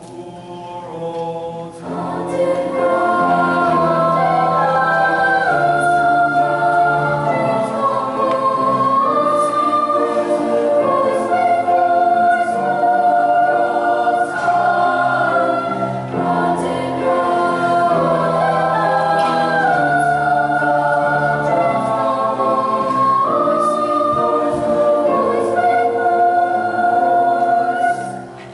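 Junior high choir singing in parts, with sustained chords; the voices come in at full strength about two seconds in.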